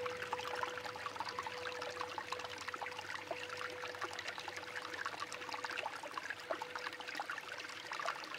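Water trickling and lapping, with many small drips and splashes, over a faint steady tone that fades away.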